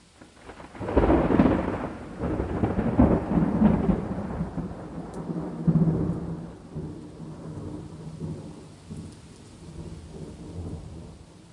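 A thunder peal over steady rain: it breaks about a second in, rumbles on with further peaks around three and six seconds, then slowly fades back to the rain.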